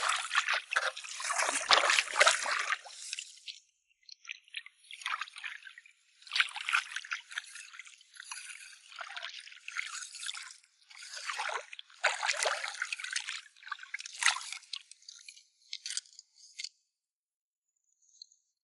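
Shallow tide-pool water splashing, sloshing and trickling in irregular bursts as it is stirred through. It stops near the end.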